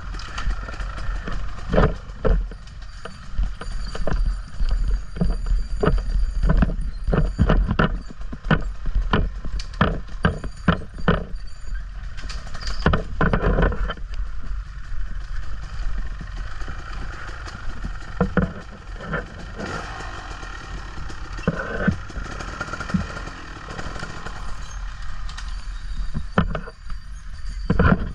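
An off-road motorbike riding a rough trail, with many sharp knocks and clatter from bumps over a low rumble.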